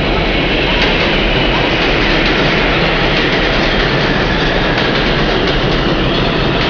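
Train running along the track, heard from inside a passenger car: a loud, steady noise of the wheels on the rails and the moving car.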